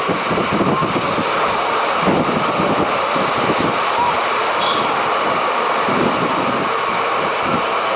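Train running along the track, heard from on board: a steady rumble and rattle with irregular knocks from the wheels and carriage, and wind noise on the microphone.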